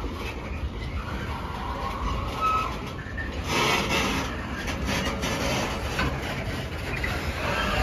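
Rail tank wagons rolling slowly past on the track: a steady rumble of wheels on rail, with scattered clicks and a brief high squeak about two and a half seconds in.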